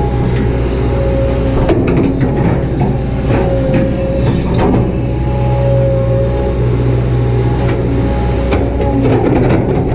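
Kobelco SK200-8 hydraulic excavator working: its diesel engine runs steadily under load with a hydraulic whine that comes and goes as the controls are worked. Scattered short knocks run through it.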